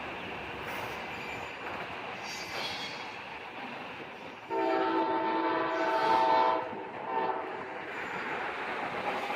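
Train horn sounding a multi-note chord: one long blast of about two seconds, then a short one, over the steady noise of a moving train.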